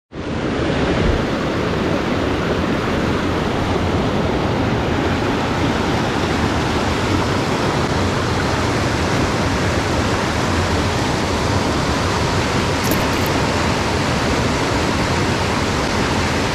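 Fast-flowing mountain stream water rushing steadily over rocks.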